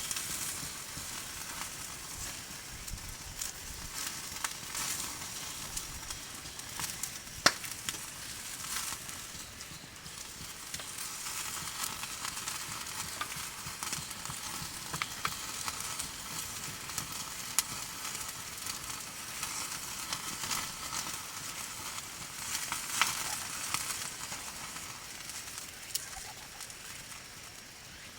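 Campfire with a steady sizzling hiss and scattered sharp pops and crackles; one loud pop about seven and a half seconds in.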